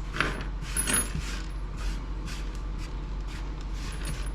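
Small plastic and metal scrap parts clicking and clinking against each other and the work surface as they are handled and sorted by hand. The clicks are irregular, over a steady low hum.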